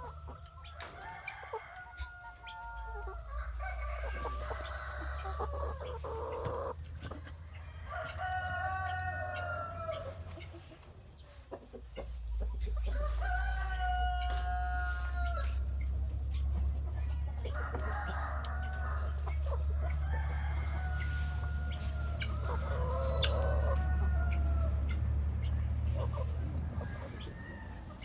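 Domestic chickens calling: roosters crowing several times, with hens clucking in between. A steady low rumble runs underneath, stronger from about the middle.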